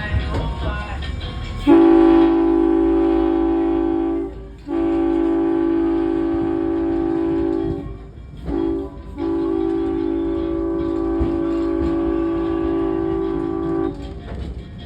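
Diesel train horn sounding a chord in four blasts, long, long, short, long: the standard signal for approaching a road crossing. It sounds over the low rumble of the train running.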